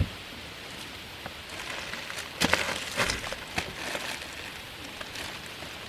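Rustling and handling of a boxed, plastic-wrapped mattress topper, with a few sharp knocks and crackles in the middle, over a steady background hiss.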